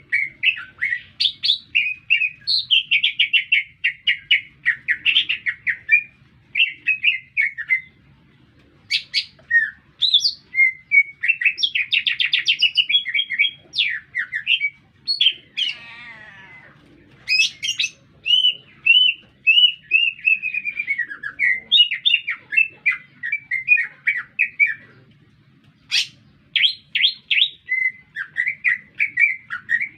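Green leafbird (cucak ijo) singing a long, varied song of rapid chirps, trills and whistled slurs, phrase after phrase with short pauses between, and a brief harsh raspy note about halfway through.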